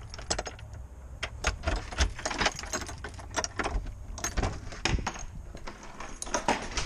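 Irregular clicking and rattling of small hard objects being handled close to the microphone.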